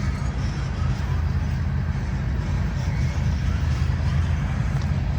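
BNSF diesel-electric freight locomotives running under load at the rear of a loaded coal train as it passes: a steady, deep engine drone.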